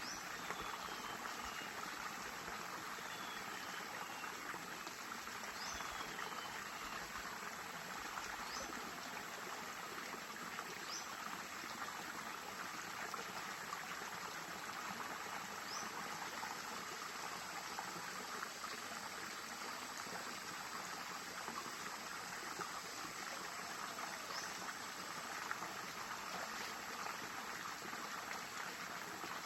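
A stream flowing steadily, a continuous even rush of water, with a few faint short high chirps over it.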